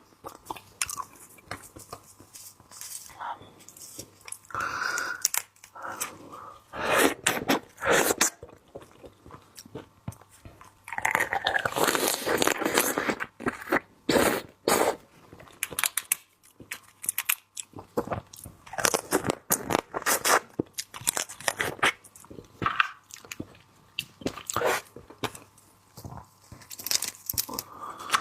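Close-up chewing and crunching of raw seafood that still has ice crystals in it, in irregular crackling bursts, densest about eleven to fifteen seconds in.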